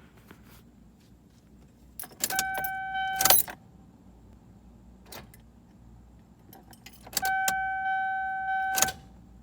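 Two key-turn attempts to start a 1999 Toyota RAV4 that won't start. Each try brings keys jangling and clicking and a steady, even-pitched whine lasting about a second and a half, and no engine running is heard after either.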